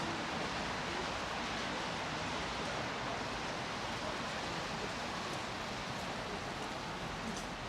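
Steady outdoor city street noise, an even hiss and rumble with no single sound standing out.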